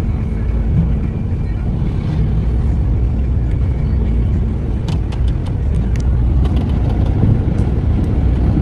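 Steady low rumble of a moving road vehicle, with a few light clicks about five to six seconds in.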